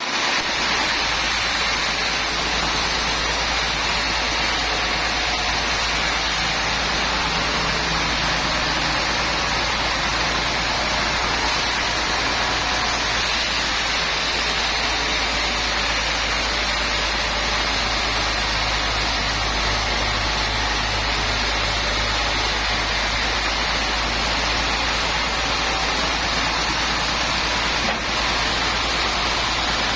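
Sawmill machinery running with a steady, even noise that holds level throughout, with no rise or fall.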